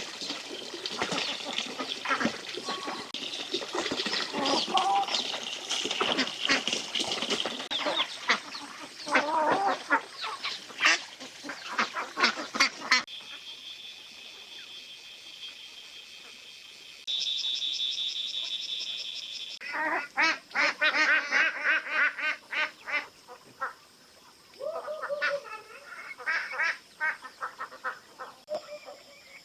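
Farm waterfowl calling in repeated quacking and honking bursts, busiest in the first half. A steady high-pitched buzz takes over for several seconds in the middle before the calls start again.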